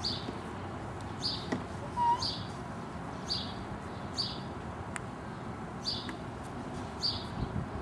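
A bird chirping repeatedly: short, high chirps roughly once a second.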